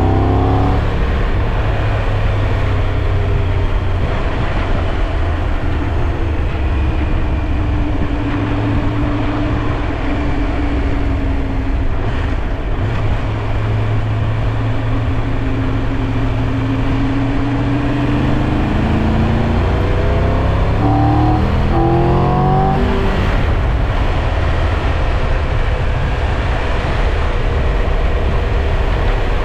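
Triumph Tiger 1200 Rally Pro's three-cylinder engine under way, with wind rushing over the microphone. The engine note eases off through the middle, then rises in short steps with quick gear changes about three quarters of the way through.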